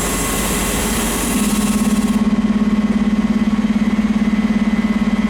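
Fire apparatus diesel engine idling. About a second and a half in, a strong, rapidly pulsing hum sets in and holds steady. A hiss sounds over the first two seconds, then stops.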